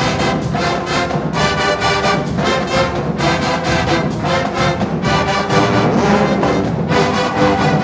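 Marching band playing, with brass (trombones and trumpets) sounding full chords held a second or two each, separated by brief breaks, over drums.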